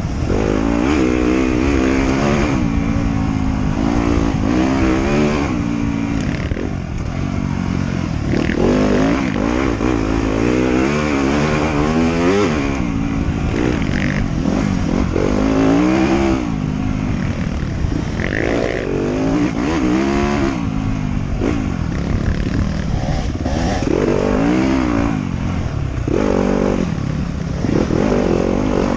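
Off-road motorcycle engine, its pitch rising and falling over and over as the throttle is opened and closed, every second or two.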